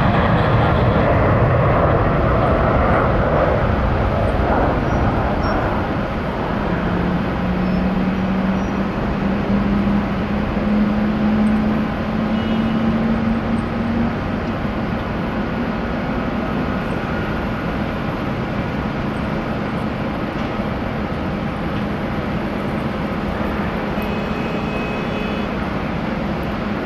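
Jet airliner on the airport apron during pushback: a steady rushing jet noise, with a low hum that rises slowly in pitch from about 7 to 14 seconds in.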